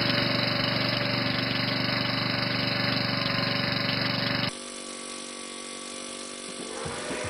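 Vintage Honda HR194 push mower's engine running at a steady speed. About four and a half seconds in it cuts abruptly to a quieter run of the engine, and music comes in near the end.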